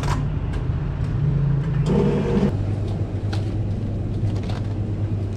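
Lorry's diesel engine running steadily, its note dropping about two and a half seconds in, with a few sharp clicks.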